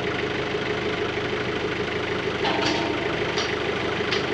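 Diesel engine of a heavy machine idling steadily, with a few sharp metallic clinks in the second half.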